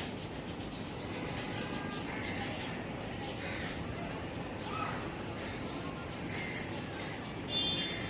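Birds calling now and then over a steady background hiss, with a few small clicks.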